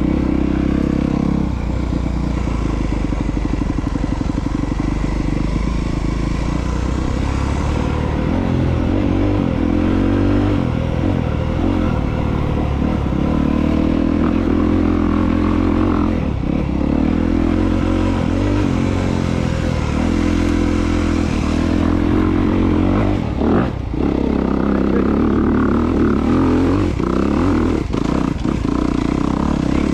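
2022 Honda CRF250R dirt bike's single-cylinder four-stroke engine being ridden, its pitch rising and falling over and over as the throttle is opened and closed, with a brief drop about 23 seconds in.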